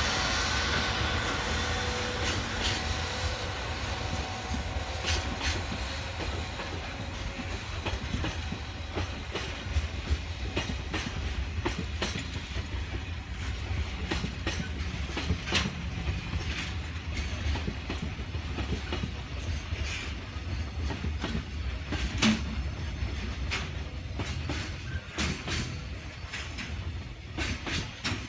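Freight train rolling past, its wagons rumbling steadily with irregular sharp clicks as the wheels cross rail joints. It is loudest at the start and eases off over the first few seconds.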